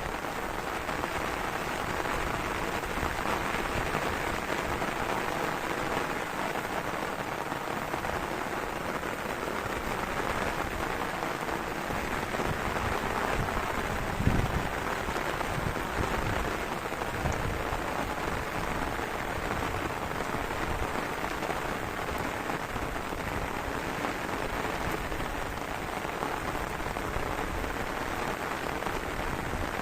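Heavy rain falling steadily in a dense hiss. About halfway through there is a brief low thump, the loudest moment, followed by a few weaker low rumbles.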